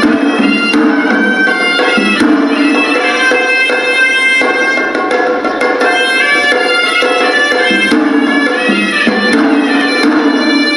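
Hewisi temple music: a horanewa, the Sri Lankan double-reed pipe, plays a sustained nasal melody over repeated drum strokes.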